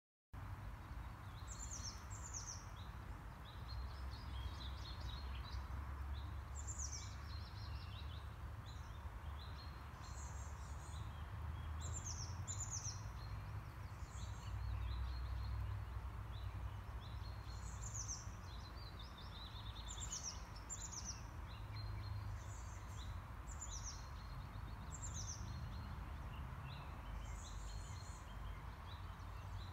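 Wild birds singing: short, high notes that fall in pitch, repeated every second or two, over softer lower chirping. A steady low rumble, such as wind on the microphone, runs underneath.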